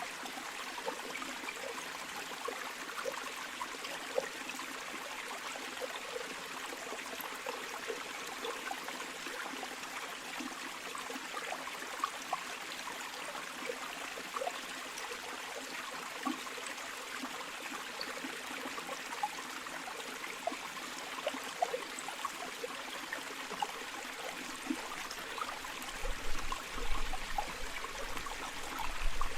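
River water flowing steadily, a constant rush with small splashes and trickles through it. Near the end a low rumble comes in and the level rises in uneven bumps.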